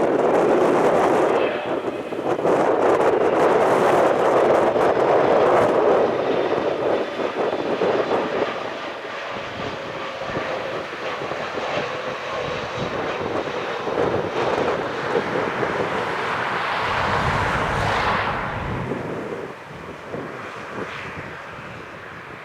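Airbus A320neo jet engines: a loud, steady roar that fades over the following seconds as the airliner draws away, with a brief low swell and a falling whine near the end.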